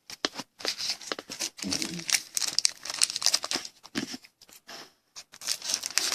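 Crinkling and tearing of a thin plastic or foil trading-card pack wrapper, a dense run of crackles with a brief lull about five seconds in.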